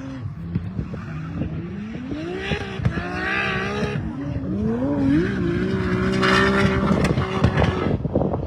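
Drift car engine revving hard: its pitch climbs for a few seconds, drops briefly about four seconds in, then climbs again and holds high. Tyres squeal under it as the car slides.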